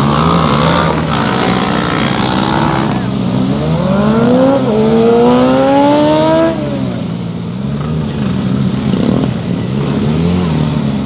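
Motorcycle engine accelerating hard, its pitch climbing, stepping once as it shifts up, then cutting back suddenly about two-thirds of the way in, over another engine running with a wavering pitch.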